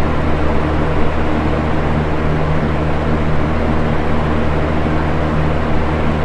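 Box fan running steadily: an even whoosh of moving air over a low motor hum.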